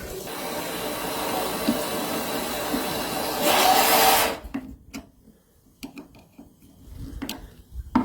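Water rushing out of a hose draining sediment from a hot water heater tank onto the floor. It swells briefly, then cuts off suddenly about four seconds in as the quarter-turn drain valve is shut. A few faint clicks follow.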